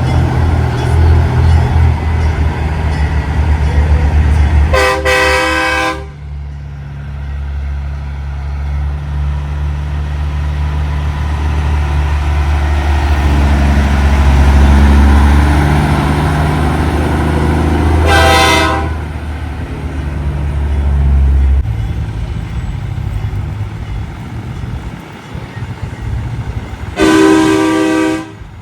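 Big-rig diesel trucks rumbling past in a convoy, with a truck air horn blasting three times: about five seconds in, midway, and near the end, each blast about a second long.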